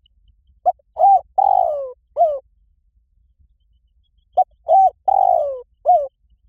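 Spotted dove cooing: two identical phrases, each of four coos: a short one, a second, a long coo that falls in pitch, and a short final coo.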